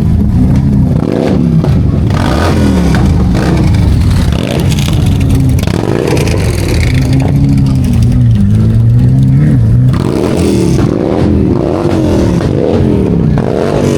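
Car engines revving repeatedly, their pitch rising and falling in one blip after another.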